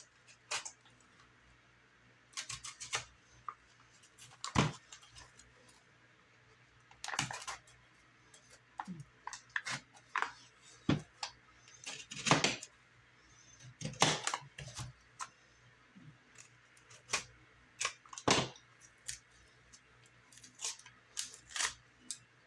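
Utility knife cutting and scraping at a firework cake's fuse protector and its packaging, in irregular short strokes and a few longer scrapes with pauses between.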